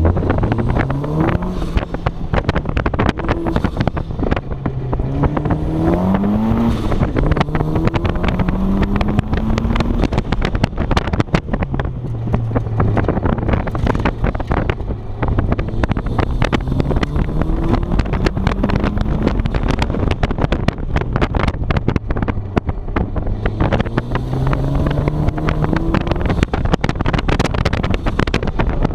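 A 2006 Mazda Miata's four-cylinder engine on an autocross run: its pitch climbs and drops again and again as the car accelerates and slows, with crackling wind buffeting throughout.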